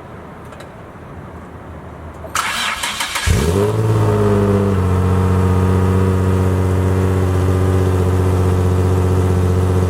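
Nissan 350Z's 3.5-litre V6 cranked by the starter for about a second, then catching with a brief rise in revs and settling into a steady idle. It runs through a freshly welded solid test pipe with the flex pipe removed, and sounds way quieter.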